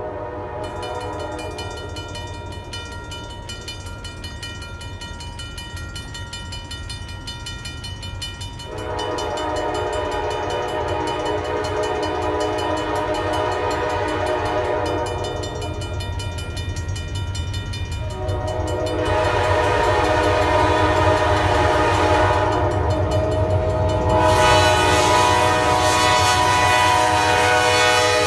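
Diesel freight locomotive's air horn blowing a series of long blasts, faint at first and growing louder as the train approaches, over the steady low rumble of the locomotive.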